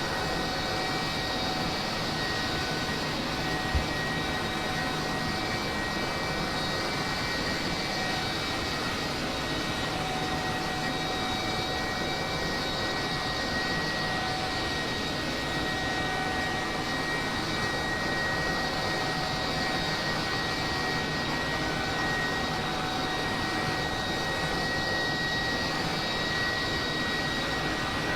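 Steady aircraft engine noise with a constant high whine that holds unchanged throughout, and a single sharp click about four seconds in.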